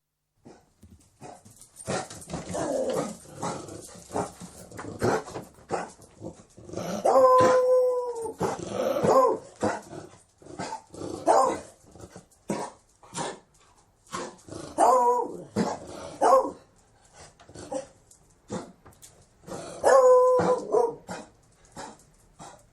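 Beagle baying and barking: three long, held bays come about 7, 15 and 20 seconds in, each followed by a few shorter barks. Short, noisy snuffling and breathing sounds fill the gaps between calls.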